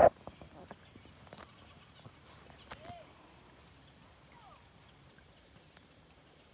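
Insects, crickets or cicadas, giving a steady high-pitched buzz, with a few faint clicks and a short chirp about three seconds in.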